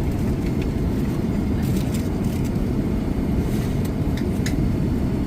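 Steady low rumble of an Airbus A380's cabin in flight, with a few faint light clicks over it.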